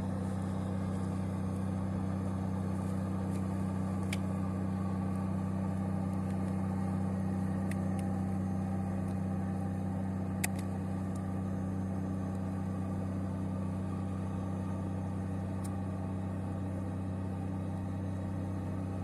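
Fishing boat's inboard engine running at a steady speed, a constant low drone, with a couple of faint sharp clicks, the clearest about ten seconds in.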